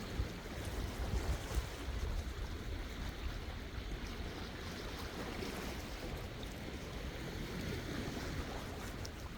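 Sea waves washing against the shore in a steady surf, with a low wind rumble on the microphone that swells a few times in the first two seconds.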